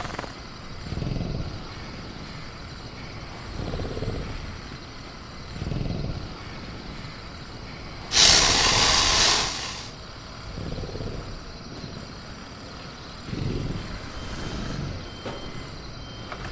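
Sound-effects ambience of a caged velociraptor: soft low rumbles, growls or heavy breaths, come every couple of seconds under a faint, steady high chirring of crickets. About halfway through, a loud hiss lasts about a second and a half.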